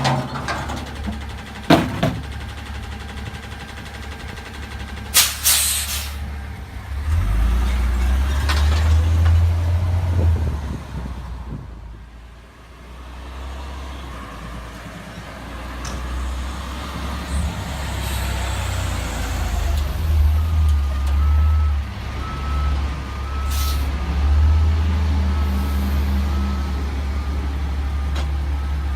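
CNG-powered garbage truck running, its engine rising and falling as it works, with sharp air-brake hisses several times. About two-thirds of the way through, its reversing alarm starts beeping steadily and keeps on.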